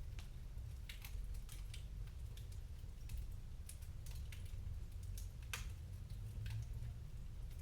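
Wood fire crackling: scattered sharp pops and snaps at an irregular pace, over a low steady rumble.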